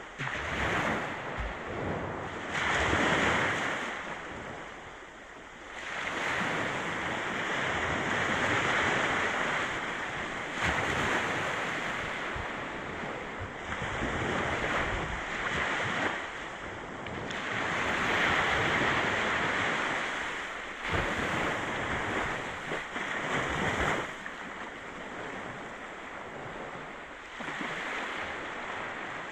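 Sea waves breaking and washing up on a beach, the surf swelling and falling away every few seconds.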